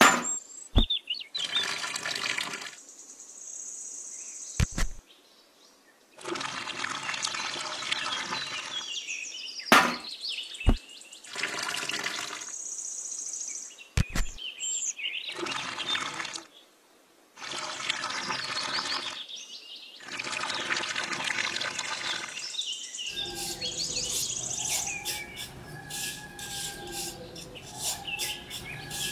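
Wet cement mix sloshing and pouring from a miniature concrete mixer into a small bucket, in several bursts with short gaps and a few sharp clicks, while birds chirp. Near the end, a small trowel scrapes in repeated strokes over wet cement.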